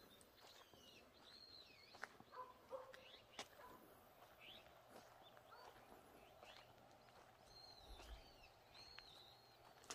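Near silence outdoors, with a small bird chirping faintly now and then in short arched notes, more often near the end, and a few light clicks.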